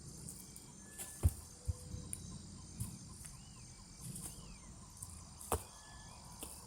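Steady high-pitched insect chorus in forest, with a few sharp knocks about a second in and again near the end, and a few short whistled bird calls.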